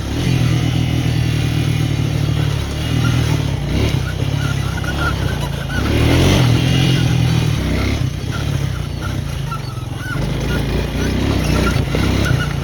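Small off-road vehicle engine running steadily while riding a rough trail, getting louder for about a second around the middle.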